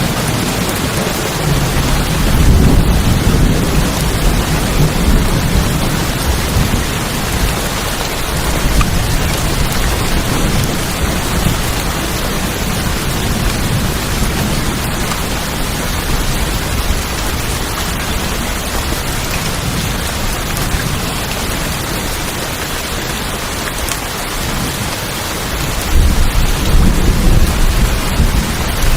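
Steady heavy rain pattering on tin roofs, with low rolling thunder swelling about two seconds in and again near the end.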